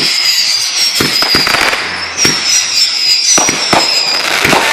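Fireworks going off: several high whistles that slide slowly down in pitch, over a dense run of bangs and crackles.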